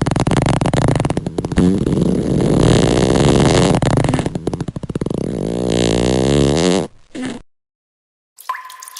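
Fart sound effect: long, low buzzing blasts that waver up and down in pitch, with rattling stretches, cutting off about seven seconds in.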